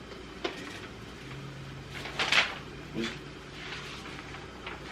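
Stroller parts being handled during assembly: a few short knocks and clatters of plastic and metal pieces, the loudest a brief clatter a little past two seconds in.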